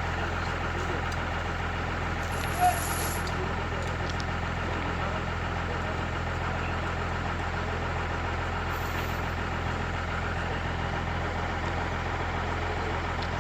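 An engine running steadily at idle, an even low hum, with a single sharp click about two and a half seconds in.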